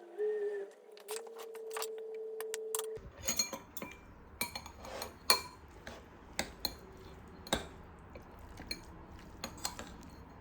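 Dishes and cutlery clinking: scattered sharp clinks of utensils against bowls and glass. A steady hum fills the first three seconds, then stops and the clinking takes over.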